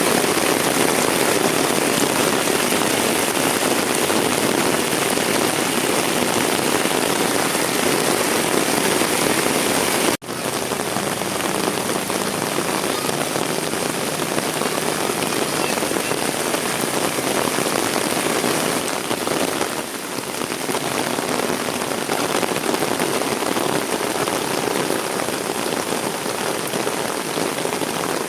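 Heavy rain falling steadily, a dense even hiss of drops, with a brief sudden break about ten seconds in.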